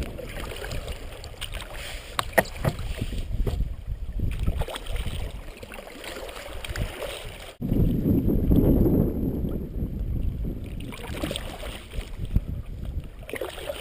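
Kayak paddling: the paddle splashing through the water stroke after stroke, with wind rumbling on the microphone, strongest in the second half.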